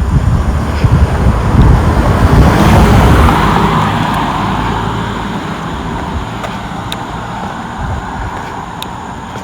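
A car passing close by, its tyre and engine noise swelling to loudest about three seconds in and then slowly fading away.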